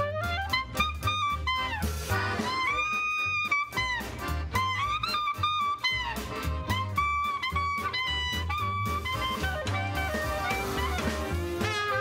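Klezmer band playing live: a melody with sliding, bending notes over a steady bass and drum beat.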